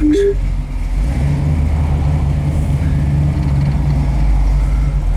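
A 1968 Chevrolet Camaro's 383 cubic-inch small-block V8 running at low revs. Its note strengthens slightly about a second in, holds steady, then eases near the end.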